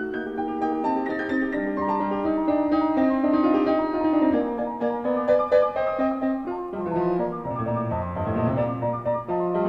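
Background piano music: many notes played together, a flowing melody over chords, with lower bass notes coming in about seven seconds in.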